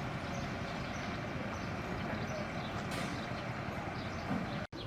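Steady outdoor rumble of road traffic, with a brief gap in the sound near the end.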